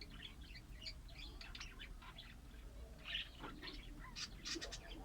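Small cage birds chirping busily: many short, high chirps overlapping, a little louder after about three seconds.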